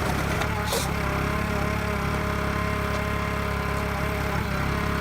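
Forestry machine's engine running steadily at an even speed, with a brief hiss about a second in.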